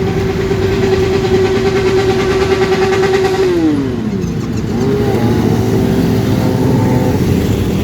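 Motorcycle engine held at high revs for a few seconds, then dropping sharply back toward idle about three and a half seconds in. It is revved up again and held near the end, over the steady rumble of other motorcycles running.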